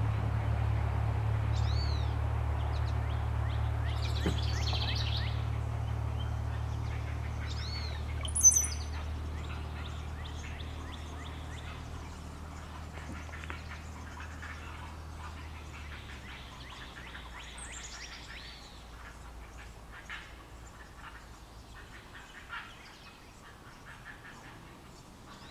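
Wild birds calling, with short, high, arching chirps; one loud chirp comes about a third of the way in. Under them runs a low steady hum that fades out past the middle.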